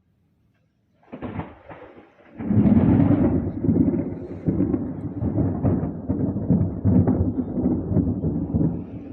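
A thunderclap: sharp crackling about a second in, then loud rolling thunder that rumbles on with a crackling texture.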